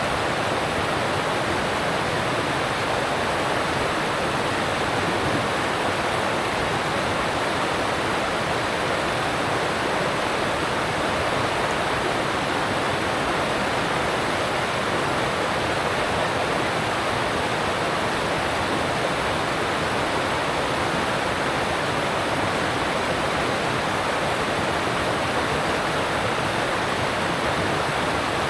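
Alpine mountain stream rushing over rocks: a steady, unbroken rush of water.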